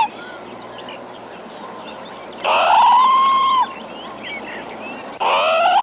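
Parrot calling: loud drawn-out calls, each rising in pitch then holding steady, one in the middle and another near the end, with faint chirps of other birds between.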